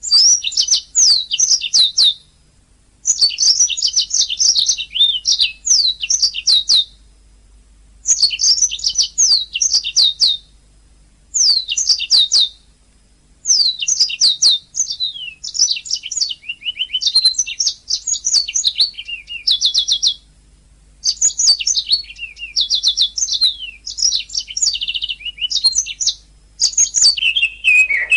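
Domestic canary singing: bouts of a few seconds each of fast, high chirps, down-sweeping notes and rattling trills, separated by short pauses.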